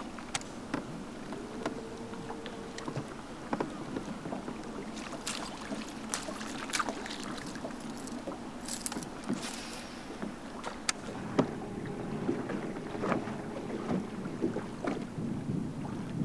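Irregular light clicks and rattles of fishing gear being handled on a bass boat, over a steady rush of wind and water.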